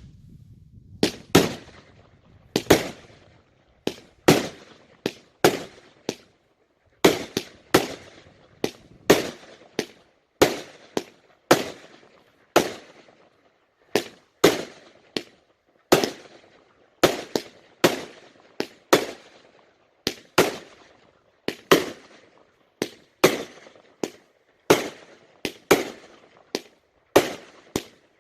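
Fireworks going off in a long, steady run of sharp bangs, about one to two a second and often in close pairs, each one ringing out briefly.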